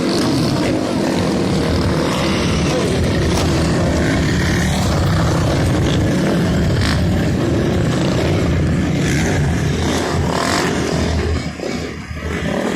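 Motocross dirt bike engines running loud and steady, dipping briefly about a second before the end.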